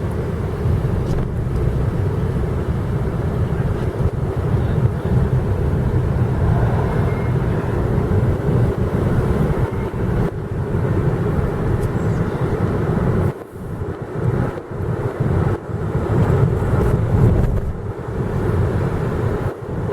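Car cabin noise while driving: a steady low rumble of road and engine noise, turning uneven and fluttering with sudden dips in the last several seconds.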